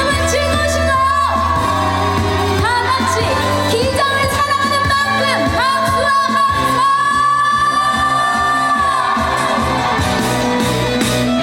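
A woman singing a trot song live over backing music, her voice wavering with vibrato on held notes, the longest held for about two seconds near the end.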